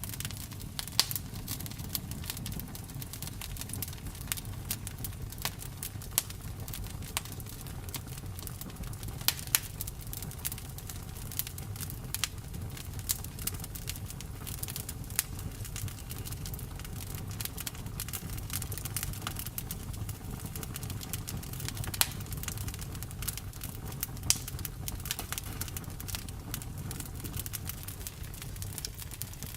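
Campfire burning: a steady low rumble of flames with frequent sharp crackles and pops, and a few louder snaps spread through.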